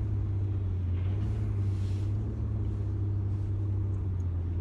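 Car engine and tyre noise heard from inside the cabin while driving: a steady low drone.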